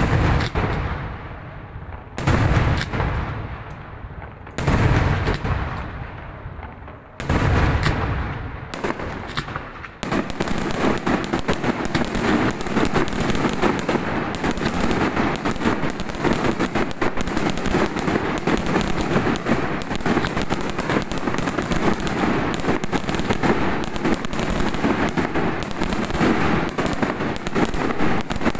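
Daytime festival fireworks: four heavy single bangs about two seconds apart, each echoing away, then from about ten seconds in a continuous rapid crackle of firecracker reports.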